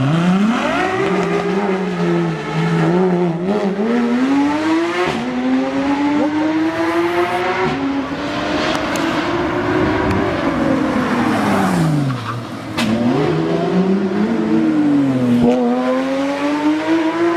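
A performance car's engine revving hard, its pitch climbing and dropping again and again, with tyre noise around the middle.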